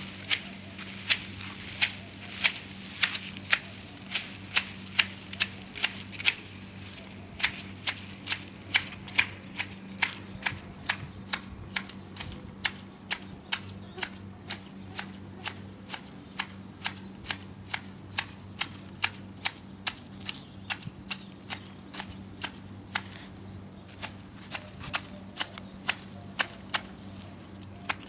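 Hand shears snipping the foliage of a garden tree: a long regular run of sharp clicks, about two a second, over a low steady hum.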